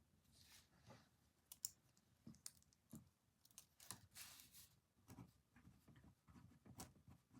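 Faint desk sounds of someone working: scattered light clicks and taps, with two soft swishes, one near the start and one about four seconds in.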